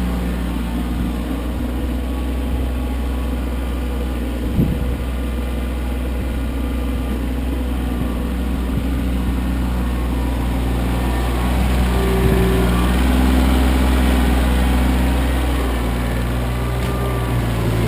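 Kioti CK25 compact tractor's three-cylinder diesel engine running steadily, pulling a little harder for a few seconds past the middle. There is a single knock about four and a half seconds in.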